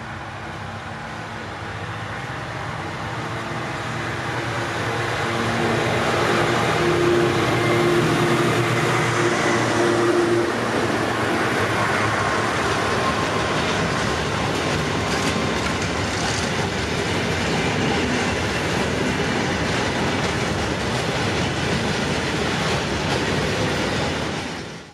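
A diesel locomotive hauling a freight train approaches and passes, its engine running with a steady hum that is loudest about seven to ten seconds in. A long string of hopper wagons then rolls by with a rushing noise and wheels clacking, until the sound cuts off abruptly near the end.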